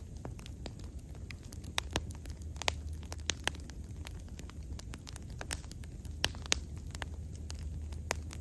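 Wood bonfire burning, with irregular sharp crackles and a few louder pops over a soft low rumble of the flames.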